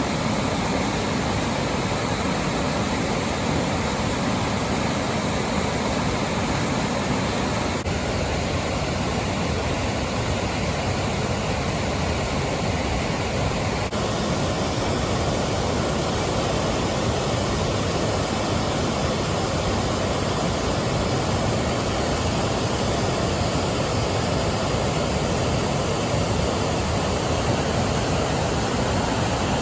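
River rapids: white water rushing, a loud, steady, dense hiss of water.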